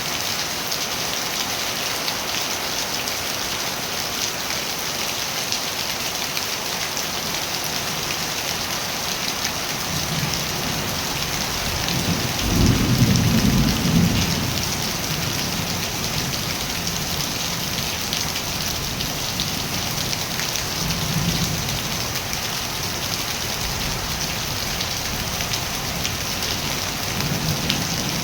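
Steady rain falling, an even hiss throughout, with a low rumble of thunder swelling about halfway through and fainter low rumbles later on.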